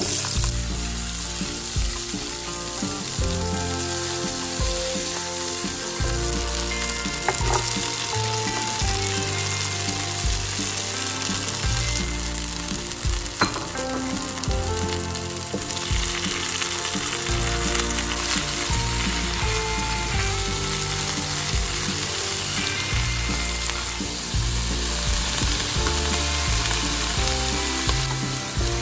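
Garlic, scallion and vegetables sizzling in hot oil in a nonstick frying pan, with a single sharp tap about halfway through.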